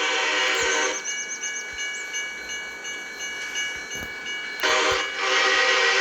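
Diesel locomotive horn sounding a multi-tone chord, one blast ending about a second in and a second long blast starting near the end, over a railroad crossing bell ringing steadily at about three strokes a second.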